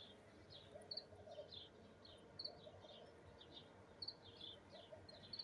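Faint chirping of small birds: short high chirps repeated steadily, two or three a second, with a lower call coming in short groups about every second and a half.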